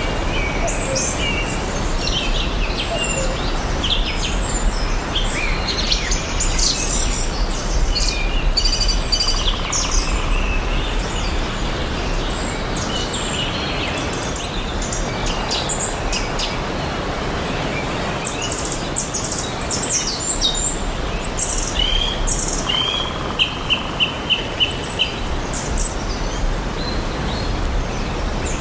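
Several birds chirping and singing with many short, high calls, including a quick run of about six repeated notes near the end, over a steady background hiss and low rumble.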